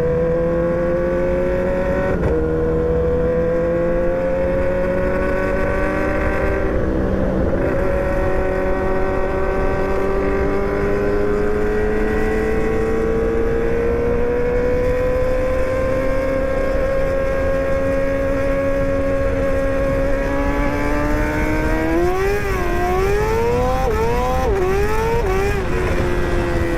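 Motorcycle engine running under way at fairly steady revs, its pitch slowly drifting up and down, over low wind rush. From about 22 seconds in, the revs swing up and down several times in quick succession.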